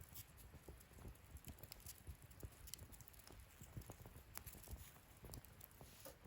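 Wood fire crackling softly in a fire pit: scattered small pops and snaps, irregular and a few each second, over a faint low rumble.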